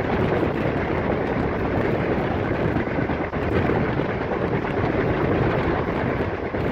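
Steady rushing noise of a passenger train running along the track, heard from an open coach window, with wind buffeting the microphone.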